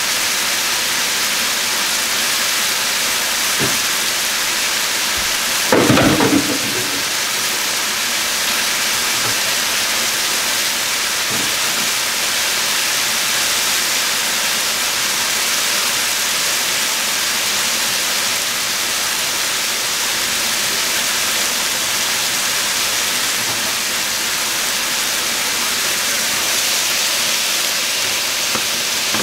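Chicken pieces sizzling steadily in a frying pan, an even hiss of frying. A short, louder knock comes about six seconds in, and a spoon starts stirring the pan near the end.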